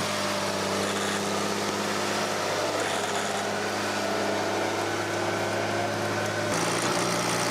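The six-cylinder Deutz diesel engine of a Welte W240 Titan forwarder running at a steady pace. Its note shifts about six and a half seconds in.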